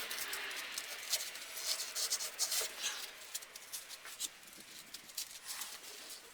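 Scratchy rustling and light clicking of paper being worked by hand into an exhaust pipe joint. The sound comes in many short, uneven scrapes and grows fainter toward the end.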